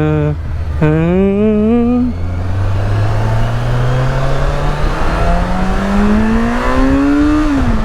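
A 1000cc touring motorcycle accelerating away, its engine note climbing steadily for several seconds and then dropping sharply at a gear change near the end. A short wavering hum comes first.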